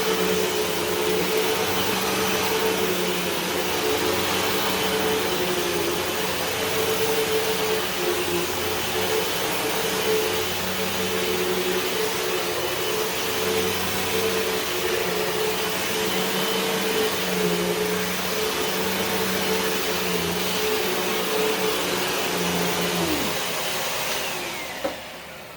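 Hoover WindTunnel 2 Whole House Rewind corded upright vacuum running steadily, its motor hum wavering slightly as it is pushed. About 23 seconds in it is switched off and the motor winds down, its pitch falling away.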